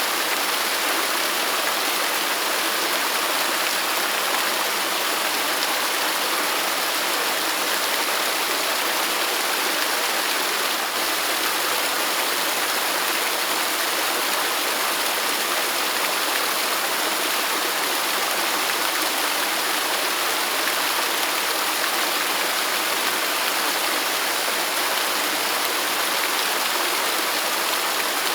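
Waterfall: a steady, unbroken rush of falling water, an even hiss with no change in level apart from a slight momentary dip about eleven seconds in.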